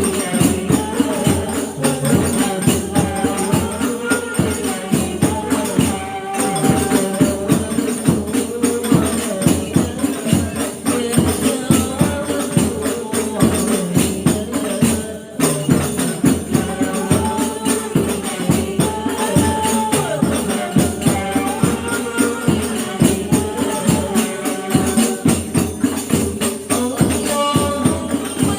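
Hadroh ensemble of rebana frame drums beating a fast, steady rhythm under women's voices singing sholawat together, with a short break about halfway through.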